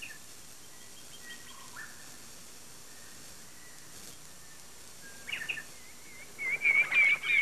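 Birds calling: a few faint high chirps at first, then near the end a louder run of quick, repeated warbling notes, over a low steady hiss.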